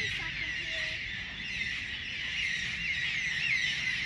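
Dense chorus of many small birds chirping and twittering together, short curving calls overlapping without pause.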